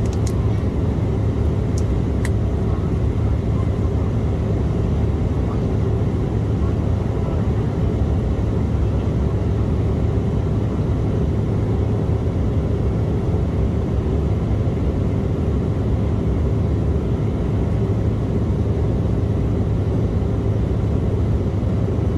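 Steady cabin noise inside an Embraer E175 airliner in flight: a constant low drone of its two turbofan engines and the airflow over the fuselage. A few faint clicks sound in the first few seconds.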